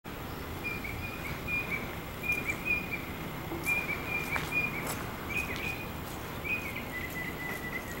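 Outdoor ambience with a bird chirping in small groups of short, high notes, changing to a steady high trill near the end, over a constant background hiss; a few faint clicks in the middle.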